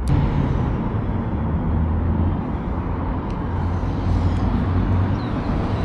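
Steady low road-traffic rumble with a faint engine hum.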